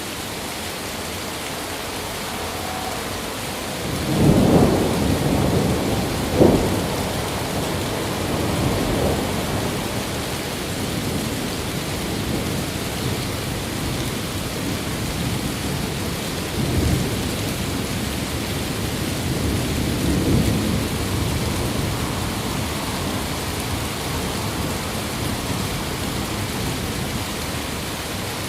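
Steady heavy rain with thunder: a rumble swells about four seconds in and ends in a sharp crack a couple of seconds later, followed by two weaker rolls of distant thunder further on.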